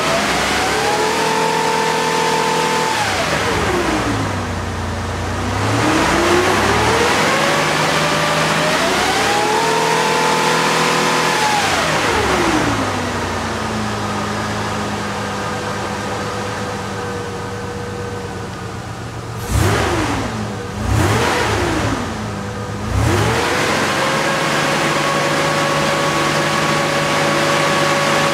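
Car engine revved up and held for a couple of seconds, dropping back to idle, then revved and held again. After an idle spell it is blipped quickly a few times and then held at a steady raised speed near the end, as part of a test for a suspected bad fuel pump.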